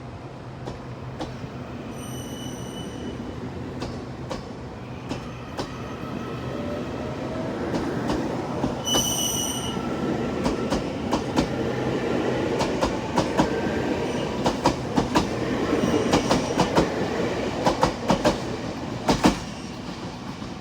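Two trains passing each other on adjacent tracks. The rush of a passing train builds from about seven seconds in, with rapid clicks of wheels over rail joints, and dies down near the end. Brief high-pitched squeals come about two and nine seconds in.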